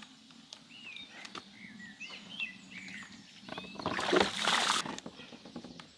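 Small birds chirping in short, rising and falling calls, then about four seconds in a louder burst of hissing, rustling noise lasting about a second.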